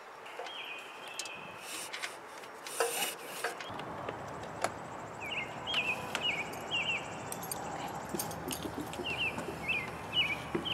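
Small birds chirping in short, repeated calls, with a few sharp clicks and knocks in between over a steady background hiss.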